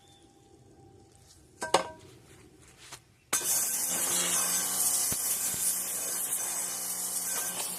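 A sharp metallic knock, then a power tool starts about three seconds in and runs steadily with a harsh, hissing grinding noise over a low hum, as work goes on at the Kombi's worn-out rear wheel bearing.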